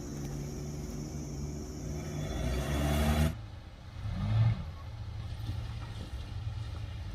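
Isuzu Trooper's engine running under load, its sound building for about three seconds before cutting off abruptly, then running lower with one short rev.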